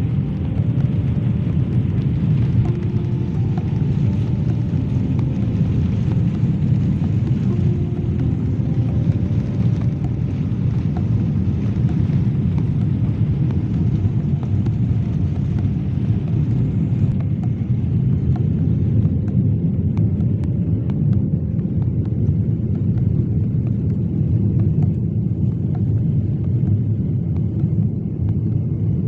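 Jet airliner cabin noise: a steady, loud low rumble of the engines and rushing air heard from inside the cabin. The higher hiss thins out a little past the middle.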